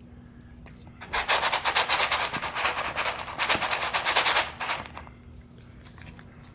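A rapid scratching rattle of a puppy's claws scrabbling at the wall of its box. It starts about a second in and runs for about three and a half seconds, with a brief break in the middle.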